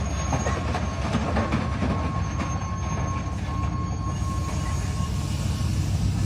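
A train rolling along the rails with a low rumble and clattering wheels, and a steady high squeal from the wheels that stops near the end.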